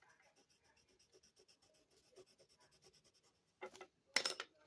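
A drawing tool scratching on paper in quick, light, repeated short strokes, then two louder, longer strokes near the end, as in sketching and shading.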